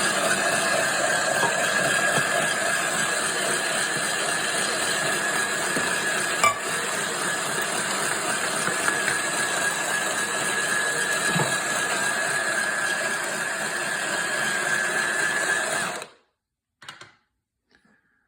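Built-in coffee bean grinder of a Cuisinart single-serve coffee maker running steadily with a constant high whine, grinding a load of beans. It cuts off suddenly about sixteen seconds in as the grind cycle ends, followed by a few faint clicks.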